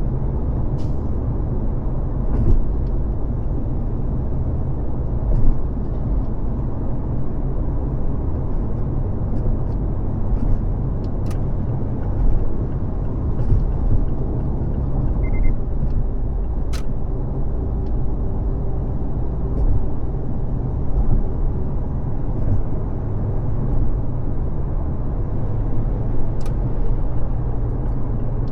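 Car driving at freeway speed: a steady low rumble of tyres and engine, with a few sharp clicks scattered through it.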